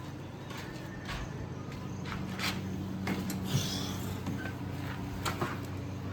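Tractor diesel engine running steadily at idle, a low even hum, with scattered light knocks and clicks over it.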